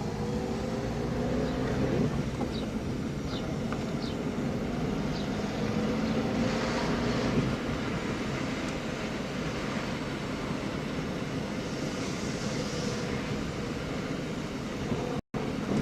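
Car engine under way, heard from inside the cabin: it rises in pitch as the car accelerates, drops at a manual gear change about two seconds in, then runs on steadily with road noise.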